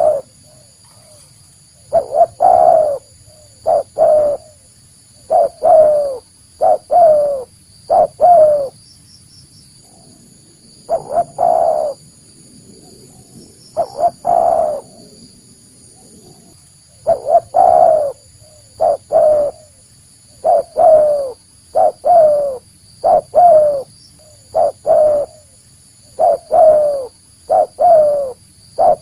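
Spotted dove cooing, its real call used as a lure for wild doves. Repeated short coos, each dipping slightly in pitch, come in runs, with two pauses of a couple of seconds partway through.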